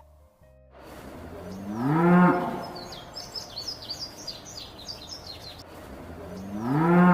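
Cow mooing twice, each moo rising in pitch and then falling away, with small birds chirping between the moos.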